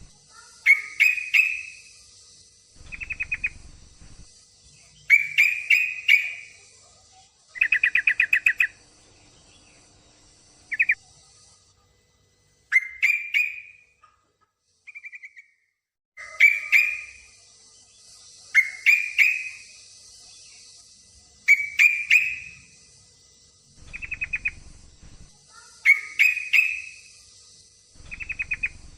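Yellow-vented bulbul (trucuk) giving short chattering call phrases every two to three seconds: the calls of a female in breeding condition calling to a male.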